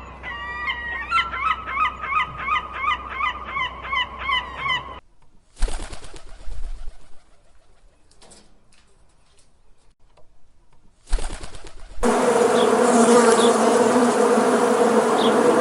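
A bird calling in a quick run of repeated chirps, about two a second, for roughly five seconds. After a few seconds of faint, scattered rustling, a loud, steady insect buzz like a bee's starts about twelve seconds in.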